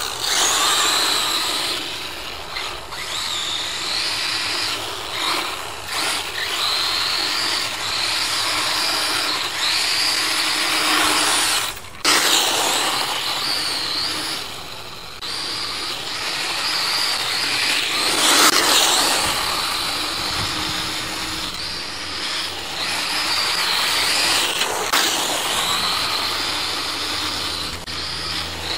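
Brushless electric motor of a Kyosho DRX VE RC rally car (Castle Creations Mamba Max Pro system) whining high as it speeds up and slows again and again, over a dense hiss of tyres on loose dirt. The sound cuts out sharply for a moment about 12 seconds in.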